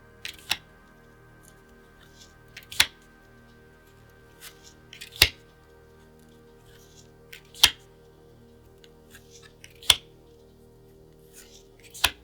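Sharp clicks, one about every two and a half seconds, with fainter handling ticks between them, over soft background music.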